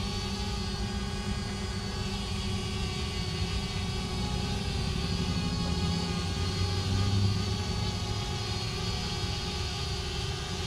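Parrot Bebop 2 quadcopter hovering in one spot, its propellers giving a steady multi-tone buzz. It is holding position on its own after losing its Wi-Fi link to the controller.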